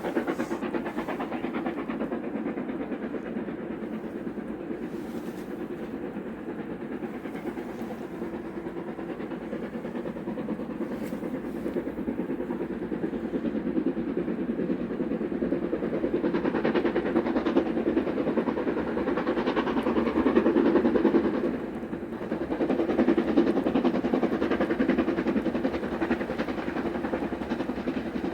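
Steam train running on the rails, a continuous rumble that grows louder a little past halfway, dips briefly and swells again near the end.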